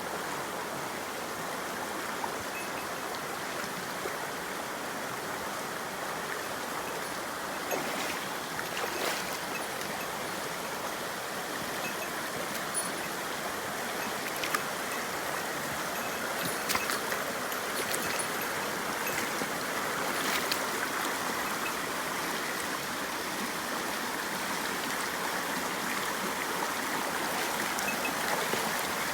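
Mountain stream rushing and gurgling steadily over rocks, with a few brief sharp splashes or knocks in the middle stretch.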